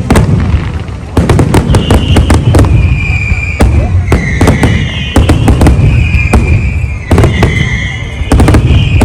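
Large fireworks display: rapid clusters of sharp bangs over a continuous low rumble. From about two seconds in, a high wavering tone runs through the bangs.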